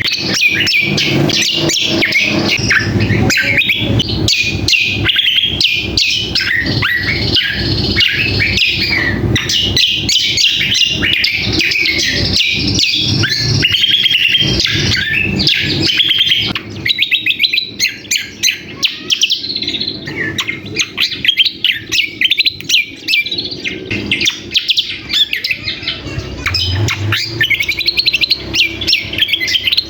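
Cucak kombo (kecial kombok) singing a busy, chattering song of rapid high chirps. About halfway through it becomes more broken, with short gaps between phrases.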